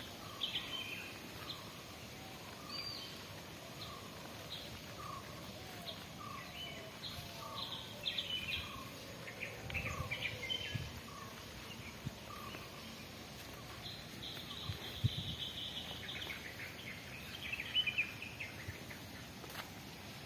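Birds chirping and calling again and again in short notes, over a steady outdoor hiss, with one longer high note a little after the middle. A couple of low thumps come in around the middle.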